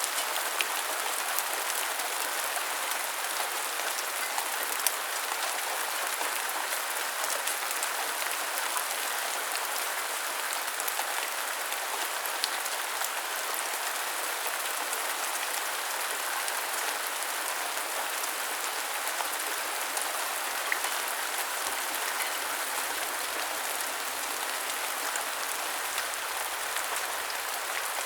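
Steady rain falling, an even hiss with scattered sharper drop ticks now and then.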